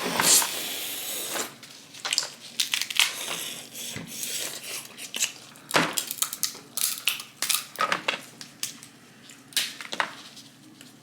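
Snow crab leg shells being cracked open, a quick irregular series of sharp cracks and clicks.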